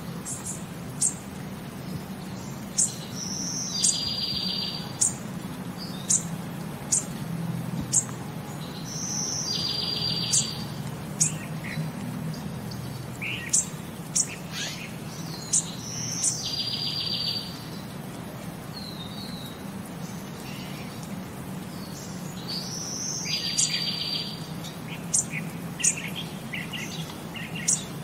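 Bird chirping: short, sharp high chirps about once a second, with a longer buzzy note four times, over a steady low hum.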